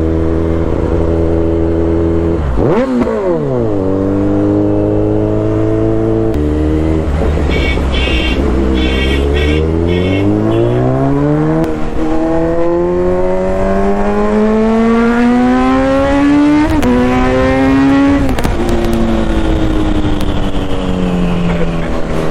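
Kawasaki Z900's inline-four engine heard while riding: a steady run, a quick swing in revs about three seconds in, then revs climbing over several seconds through short gear-change breaks, and easing back to a steady run near the end.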